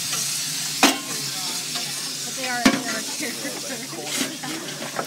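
Russell steam traction engine hissing steam steadily while fired up and building pressure, with two sharp knocks, about a second in and again near the middle.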